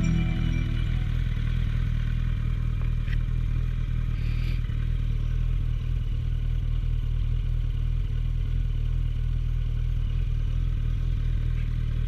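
Suzuki GSF1250S Bandit's inline-four engine idling steadily, with no revving.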